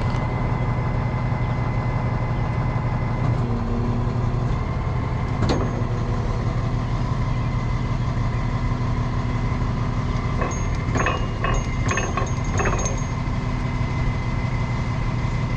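Heavy wrecker tow truck's engine idling steadily, with a single clank about five seconds in and a short run of clanks and rattles near the end.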